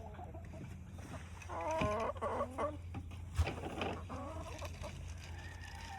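Chickens clucking, bunched around two seconds in and again near four seconds, as they wait to be fed treats. A single sharp knock about three and a half seconds in.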